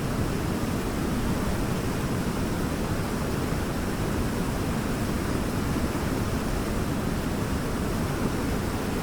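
Waterfall: a steady, unbroken rush of falling water, deepest and strongest in the low range.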